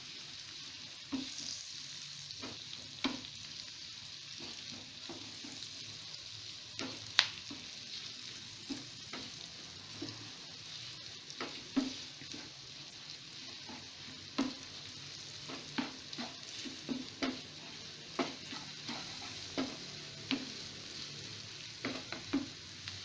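Sliced onion and diced sausage sizzling in melted margarine in a frying pan as they are stir-fried. A wooden spatula knocks and scrapes against the pan at irregular intervals, with one sharper knock about seven seconds in.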